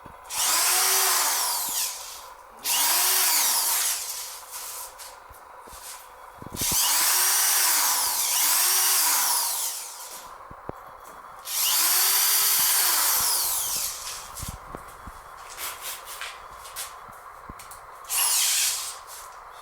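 Electric drill run in five bursts of one to three and a half seconds, its motor pitch rising at each start and falling as it stops, drilling holes at freshly made marks, with small knocks between bursts.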